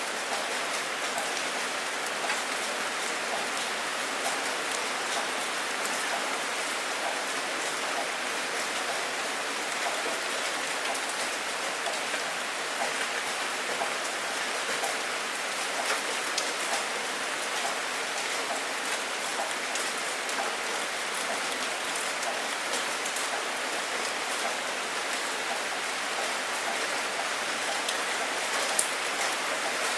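Steady rain falling, an even hiss with many small sharper drop hits scattered through it.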